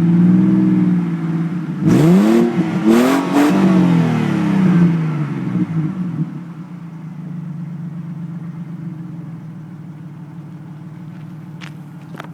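2003 Ford Falcon XL ute's inline-six revving through a 2.5-inch cat-back exhaust: a slow rise and fall, then a sharp blip about two seconds in and several quick revs. It settles back to a steady idle from about six seconds. Two short clicks near the end.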